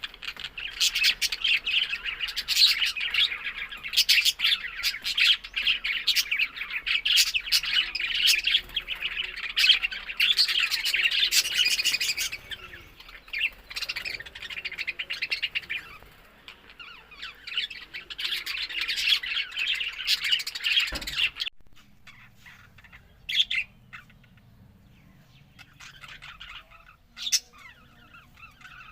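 Budgerigars chattering: dense, rapid chirping and warbling that thins out partway through, then drops off abruptly to a few scattered chirps for the last third.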